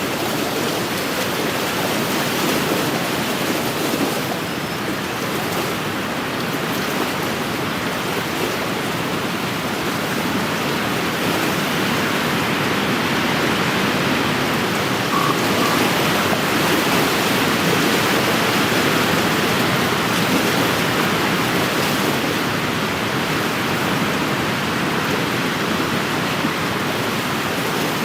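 Steady wind with wind-driven waves washing against a lake shore, swelling and easing slightly.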